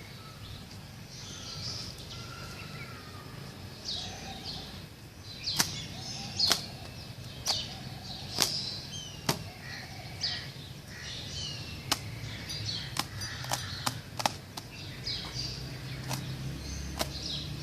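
Small birds chirping repeatedly, with about a dozen sharp clicks or taps at irregular intervals through the middle and later part, over a low steady outdoor background.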